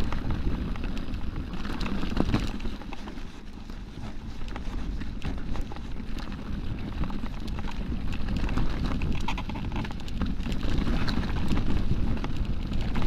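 Rocky Mountain Altitude mountain bike riding down a rocky trail: tyres rattling and knocking over loose rock with frame and chain clatter, under a steady rumble of wind on the microphone. The clatter eases off for a moment a few seconds in.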